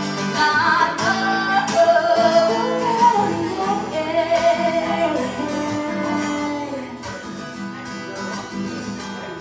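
Live acoustic guitar with a woman singing long, wordless notes as the song closes, growing quieter over the last few seconds.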